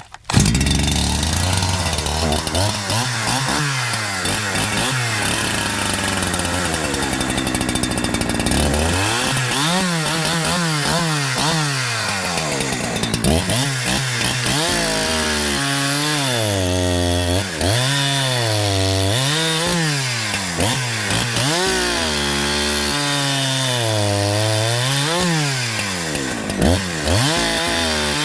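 A Holzfforma G372XP, a 70 cc two-stroke Husqvarna 372XP clone chainsaw, running with its engine speed swinging up and down over and over, steadier for the first few seconds and then revving and falling back every second or two. The saw has a freshly fitted carburetor being tuned for top end, and it still tends to bog down a little at high revs.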